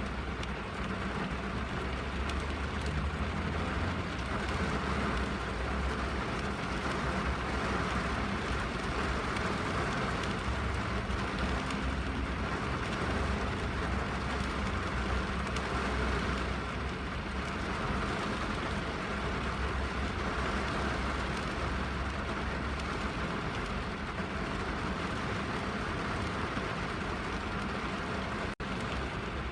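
Steady rain on a car's roof and windows, heard from inside the cabin as an even hiss over a deep low rumble. The sound drops out for a split second near the end.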